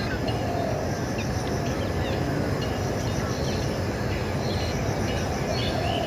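Scattered faint bird chirps and short high calls over a steady rushing background noise.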